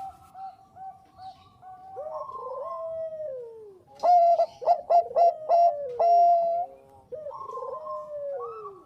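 Perkutut bangkok (zebra dove) cooing. Softer drawn-out coos with falling ends come first. About four seconds in, a loud phrase of quick, clipped notes ends on a held note. Softer falling coos follow.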